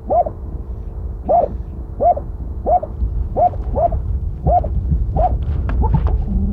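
Hunting terrier barking steadily, about one and a half barks a second, at a fox in the den, over a low rumble.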